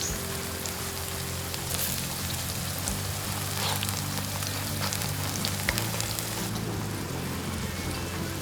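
Vegetable and chive pancake batter sizzling in hot oil in a frying pan, a steady hiss with scattered small pops of spitting oil; the high part of the sizzle thins about six and a half seconds in. Soft background music with sustained low notes plays underneath.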